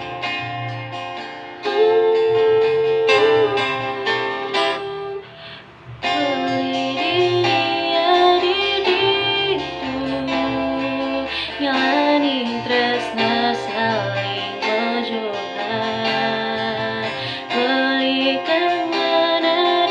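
A woman singing a slow song to guitar accompaniment. The music drops away briefly about five seconds in, then the voice and guitar come back in.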